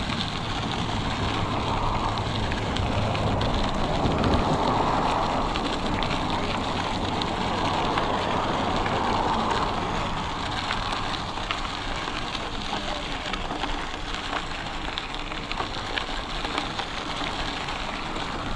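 Wind rushing over the microphone of a camera worn by a rider while cycling, with the steady rolling noise of bicycle tyres on the trail and scattered small ticks.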